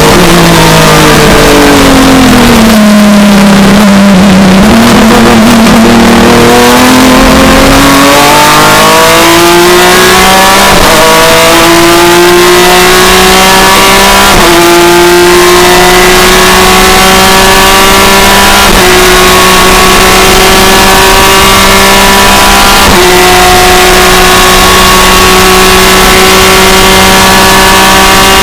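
BMW E36 M3 IMSA GT race car's six-cylinder engine, heard loud from inside the cockpit. Over the first few seconds the revs fall as the car brakes and slows. It then pulls away, the engine note climbing slowly through the gears with an upshift roughly every four seconds.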